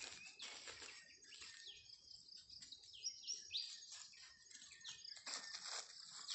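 Birds chirping: short, high, falling whistled notes, clearest about halfway through, over a quiet background with a few brief rustles.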